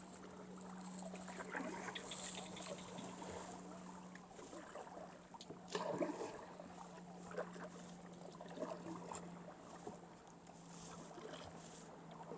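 Kayak paddle strokes dipping and splashing in calm water, with drips and trickles between strokes. The strongest splash comes about six seconds in. A couple of brief high-pitched animal calls are heard faintly over the water.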